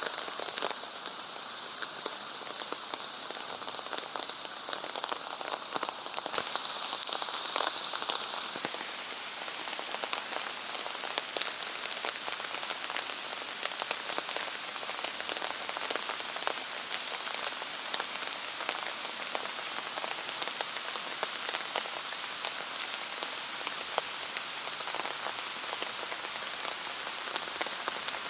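Rain falling steadily on pavement and puddles, an even hiss full of small drop patters.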